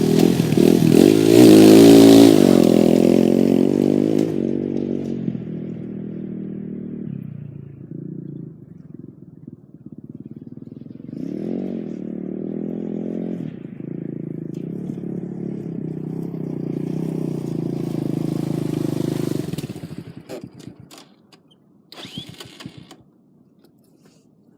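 A 2013 MXR 230 KZR dirt bike's 230cc four-stroke engine revving hard at first, then easing off and running more quietly, with another short rev about halfway through. Near the end the engine sound stops and a few clicks and knocks follow.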